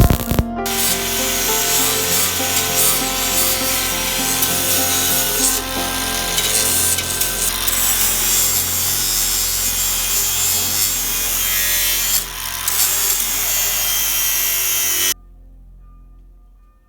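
A tool rubbing abrasively on the trolley's metal, a loud steady rasping scrape that stops abruptly about fifteen seconds in, with background music underneath.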